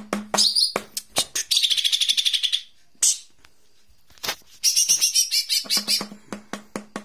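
White-eye (jomin) song: quick high chirps and twitters, with a fast rattling trill about a second and a half in. The song pauses for about a second around the middle, then resumes in dense chirping over a run of sharp clicks and a low buzz.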